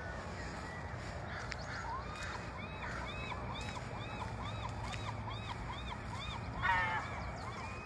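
A bird calling a steady series of about a dozen short, evenly spaced notes, followed near the end by one louder, harsher call, over a faint steady low hum.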